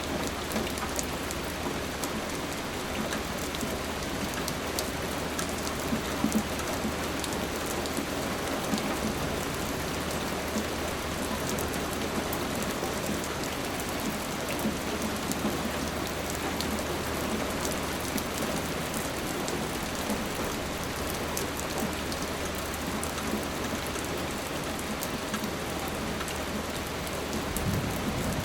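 Steady rain falling on a hard surface: a continuous even hiss with many single drops ticking through it.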